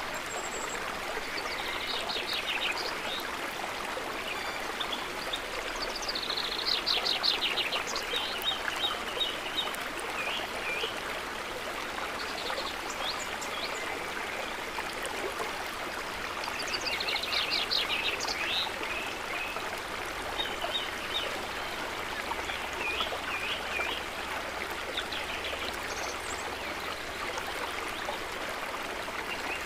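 Steady trickling, flowing water with birds calling over it in several bursts of rapid, repeated chirps.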